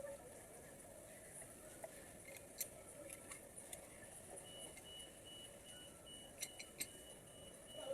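Faint room tone with a few light clicks and taps. From about halfway, a high-pitched beep repeats in short, evenly spaced pulses.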